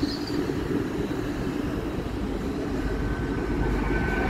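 Great Western Railway Hitachi bi-mode Intercity Express Train moving slowly along the platform on its underfloor diesel engines. It gives a steady drone and low rumble, and a faint high whine joins about three seconds in.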